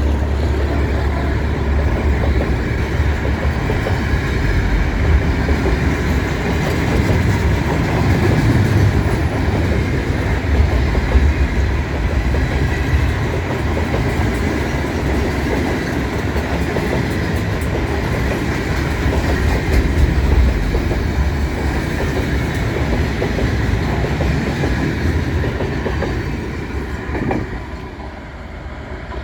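Freight train wagons rolling past, a steady rumble with wheels clicking over the rail joints, dropping away shortly before the end as the last cars go by.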